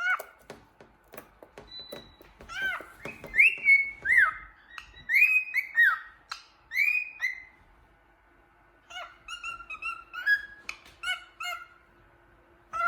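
Cockatiel whistling and singing: rapid clicking chatter, then several whistled notes that each rise and fall, then after a short pause a quick string of short chirps.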